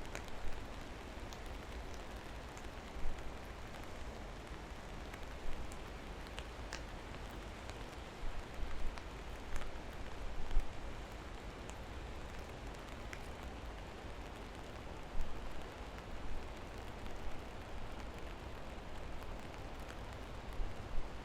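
Steady rain falling, with a low rumble underneath and scattered louder drops ticking sharply now and then.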